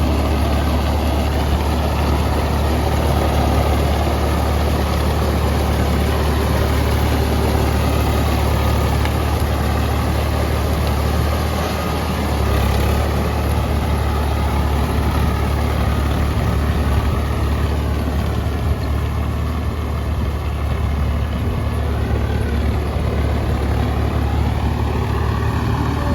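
Tractor diesel engine running steadily with a deep low hum.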